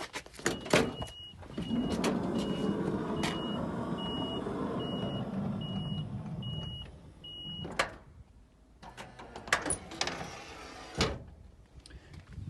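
Toyota Hiace's electric sliding side door running on its motor for about six seconds, with a warning beeper sounding roughly once a second while it moves. Latch clicks come before it, and a clunk as it stops, followed by two more knocks later on.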